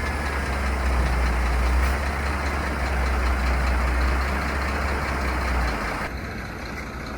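A truck's engine runs steadily with a deep low rumble. The rumble and the noise above it drop away sharply near the end.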